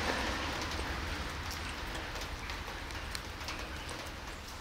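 Rain falling on pavement: a steady hiss with scattered drops tapping.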